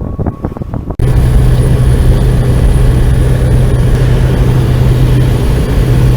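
Loud, steady drone of a small propeller plane's engine heard from inside the cabin, with a deep hum and a faint high whine. It cuts in suddenly about a second in, after a few light clicks.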